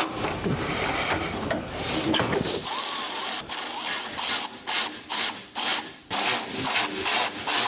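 Handling clatter, then a handheld power tool run in about ten short, regular bursts, each starting with a high whine: fasteners being driven in during an exhaust install.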